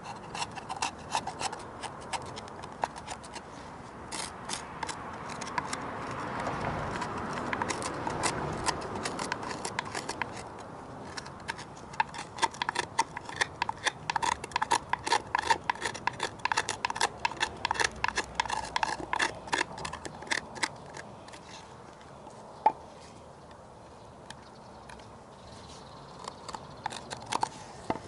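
Hand carving tool scraping and cutting wood in many quick short strokes, with a softer continuous scraping for a few seconds early on: gouging charred wood out to expose the grain.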